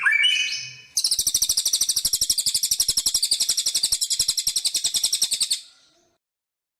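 Songbird song: a few whistled notes trailing off at the start, then from about a second in a long, very rapid, high trill of many repeated notes lasting about four and a half seconds, which stops abruptly and leaves silence.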